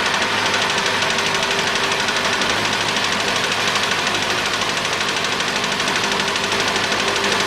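Mitsubishi ASX 1.8-litre petrol engine idling cold and shaking, with a rapid, steady knock. The mechanic takes it for a knocking piston, in an engine misfiring on its first cylinder, which has lost compression.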